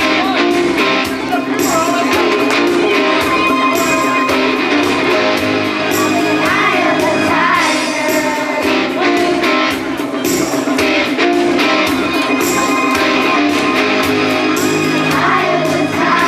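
Live band music with guitar and singing over a steady beat of about two strokes a second.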